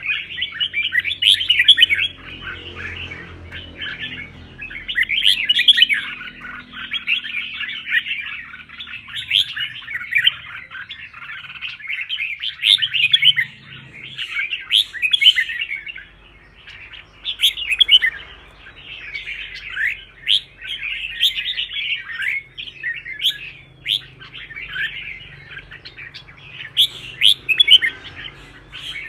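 Red-whiskered bulbuls singing in competitive, fired-up song: a near-continuous run of quick, bright, gliding phrases with only brief pauses.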